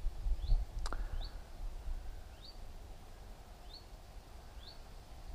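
A small bird calling with short, rising chirps, roughly one a second, over a low rumble; a single sharp click sounds about a second in.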